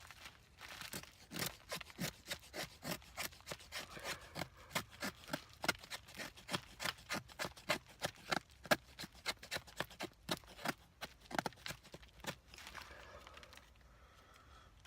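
A knife blade shaving curls off a stick of dry dead wood in quick repeated strokes, about three a second, making tinder shavings for a fire. The strokes stop a couple of seconds before the end.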